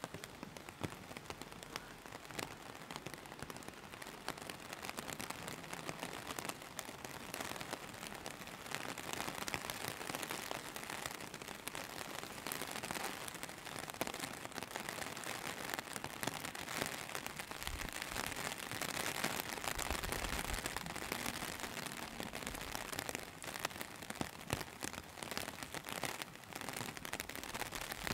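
Steady rain falling, with the dense ticking of individual drops landing on surfaces.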